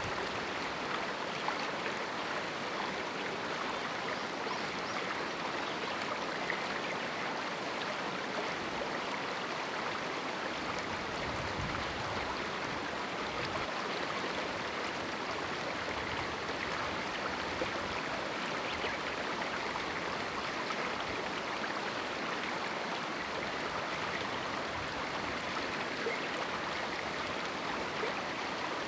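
River water rushing and splashing over rocks in a small canyon: a steady, even flow with no lulls.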